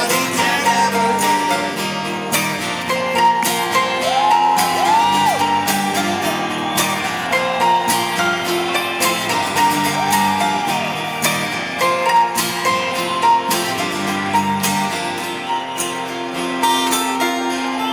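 Live rock band playing an instrumental passage: electric and acoustic guitars with bending lead notes over a steady beat of drum and cymbal hits.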